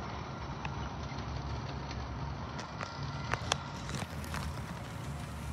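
Covered hopper cars of a grain train rolling past, a steady low rumble with a few sharp clicks about three to four seconds in.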